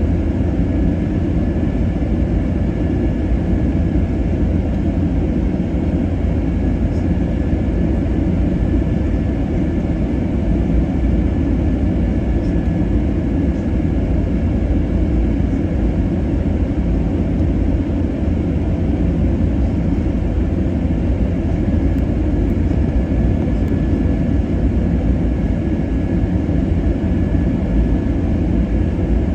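Steady cabin noise inside an Airbus A321neo in flight: a loud, even rumble of engines and airflow, with a faint steady whine above it.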